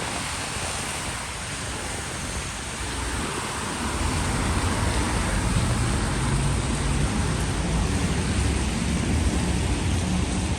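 Steady hiss of rain with street traffic. About four seconds in, a low vehicle rumble comes up louder and holds.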